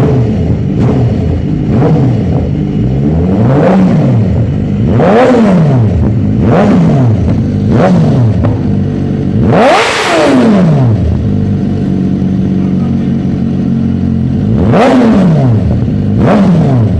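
BMW S1000RR inline-four engine through an Arrow aftermarket exhaust, idling between quick throttle blips: about nine revs that shoot up and drop straight back, the highest one about ten seconds in, with a steady idle for a few seconds after it.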